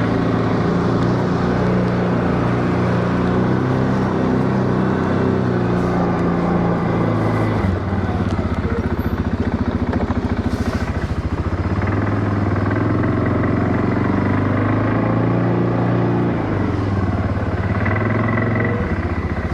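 ATV engine running steadily, its pitch shifting slightly now and then.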